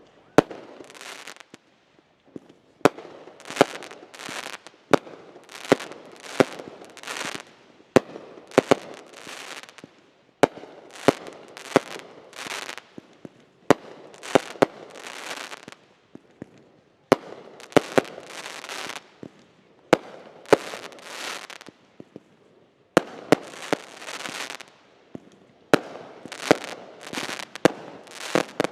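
Consumer fireworks going off in a rapid series of sharp bangs, roughly one every second or so. Each bang is followed by about a second of crackling hiss, with a few brief pauses between volleys.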